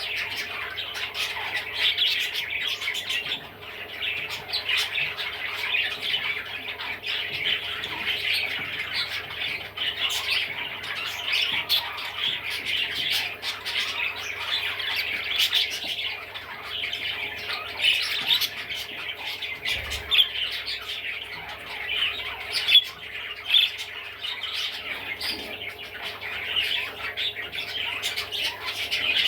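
Budgerigar chattering and warbling without a break, a dense stream of quick high chirps and squawks, over a faint steady hum.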